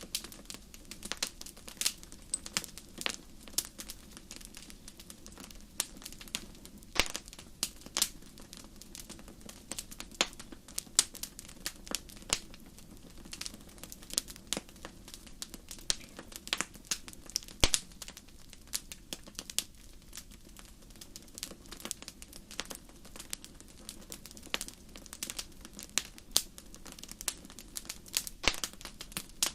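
Wood campfire crackling: irregular sharp pops and snaps of burning wood, several a second, over a soft steady background.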